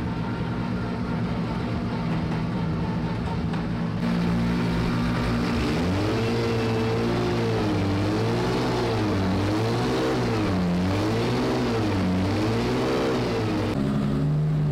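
Drift car engine running. From about six seconds in, the revs swing up and down roughly once a second, the pattern of a car being drifted through transitions.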